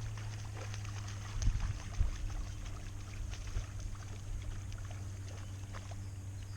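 Kayak on the water: small water ticks and trickles with two low knocks on the hull about a second and a half and two seconds in, over a steady low hum.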